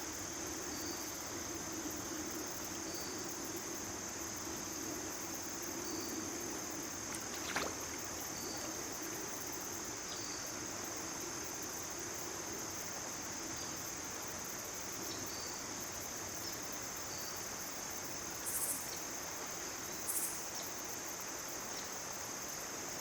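A steady, continuous chorus of crickets or katydids, with softer chirps repeating every second or two. There is a single sharp click about seven and a half seconds in, and two brief high hissing bursts near the end.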